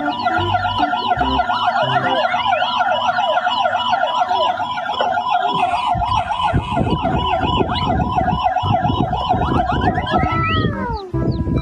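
Fast warbling electronic siren wail, sweeping up and down about six times a second, typical of a toy emergency vehicle's sound effect. From about halfway a rough low rattle runs underneath, and near the end the siren tone falls away in pitch.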